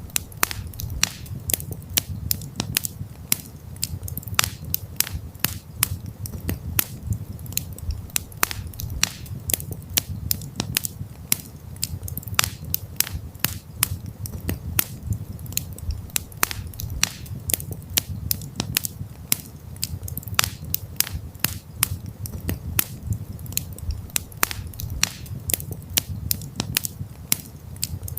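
Wood campfire crackling: an irregular run of sharp pops and snaps, several a second, over a low steady rumble.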